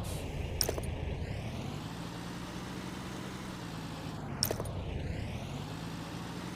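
A motor running steadily with a low hum whose pitch dips and rises again in a repeating cycle about every four seconds. A short sharp click sounds once in each cycle.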